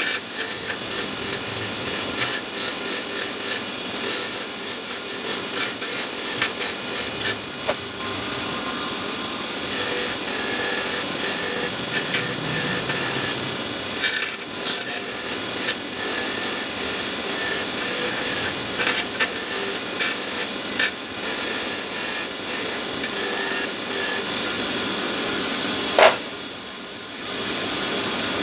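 Hand tool filing and rubbing on a metal part, in quick regular strokes for the first several seconds, then a steadier rasping. There is a sharp click near the end.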